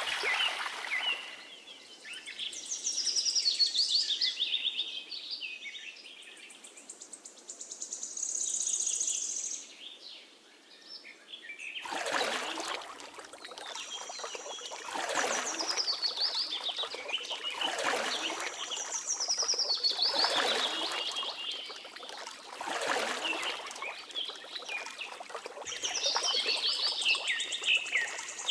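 Birdsong: repeated runs of high, falling chirping notes. From about halfway, swells of rustling noise recur every two to three seconds beneath the birds. A trickle of water is heard briefly at the very start.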